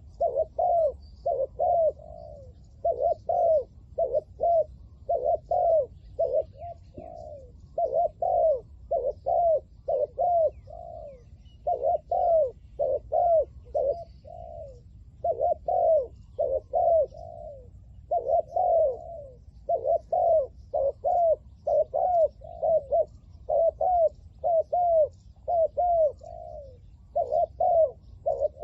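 Spotted dove cooing over and over, in short phrases of two to four rounded coos with brief pauses between them.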